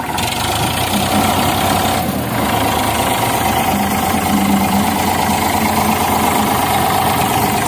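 Diesel tractor engines running hard under heavy load, steady and loud, while two tractors pull against each other in a tug-of-war.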